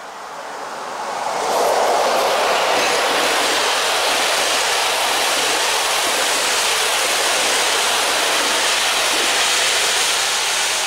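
PKP Intercity passenger train hauled by an EP07 electric locomotive passing at speed, with wheel and rail noise from the coaches rolling by. It swells quickly over the first second or so, then holds steady and loud.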